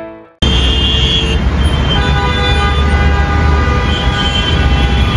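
A loud, steady low rumble with several held tones over it, like a motor vehicle running, starting abruptly about half a second in.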